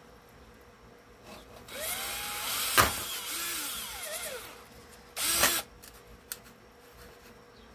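Power drill drilling holes through: the motor runs for about three seconds, its pitch rising and falling, with a sharp crack partway through, then a second short burst about five seconds in.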